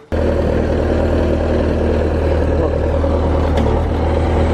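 A motor vehicle's engine running steadily, with a strong low hum. It cuts in suddenly just after the start.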